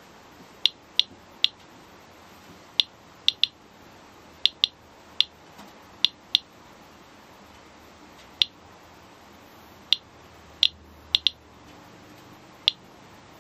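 Radiation Alert Inspector+ Geiger counter clicking at random, irregular intervals, about seventeen sharp clicks in all, sometimes two close together. Each click is one ionizing particle counted by the detector during a low-level radiation measurement.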